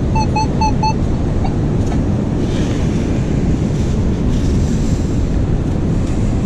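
Strong wind buffeting the microphone over surf on the beach, a loud steady low rumble. In the first second a Minelab Manticore metal detector gives a quick run of about five short beeps, its tone for a target under the coil.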